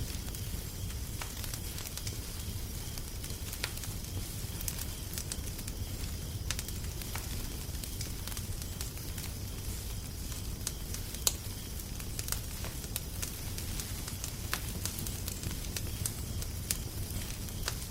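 Wood fire crackling: scattered sharp pops and snaps over a steady low rumble, with one louder pop about two-thirds of the way through.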